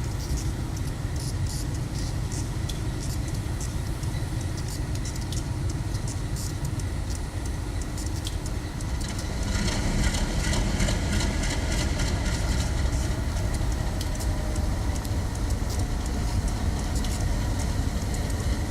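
A train rolling by: a steady low rumble with sharp wheel clicks, growing louder and busier about ten seconds in.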